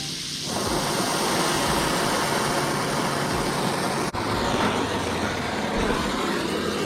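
A brazing torch flame burning steadily with a hissing roar on a copper refrigerant joint, getting louder about half a second in, with one brief sharp click or dropout a little after the middle.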